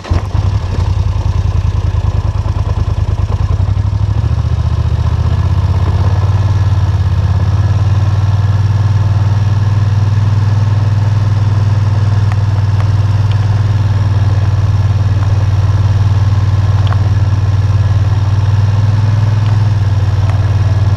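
ATV engine running steadily with a strong low hum, heard close up.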